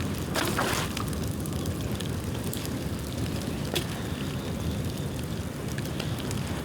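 A bonfire of dry bamboo burning, with a steady low rumble and scattered crackles. A louder crackling burst comes about half a second in, and a single sharp pop near four seconds.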